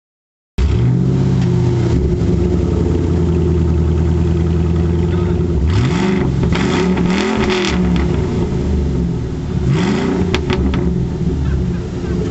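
2007 Ford Mustang GT's 4.6-litre V8 idling through its exhaust, then revved a few times about halfway through and again near the end, settling back to idle after each rev.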